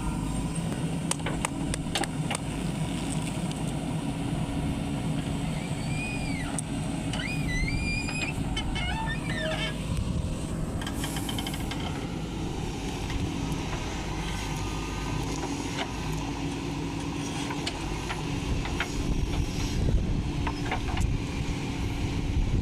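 JCB 3DX backhoe loader's diesel engine running steadily while it digs and loads mud, with scattered sharp knocks and clicks.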